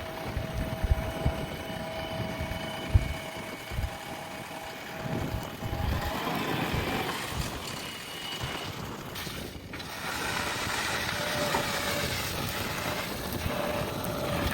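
JCB backhoe loader's diesel engine running under work, with steady whining tones. There are a few low thuds in the first four seconds, and the engine grows louder about ten seconds in.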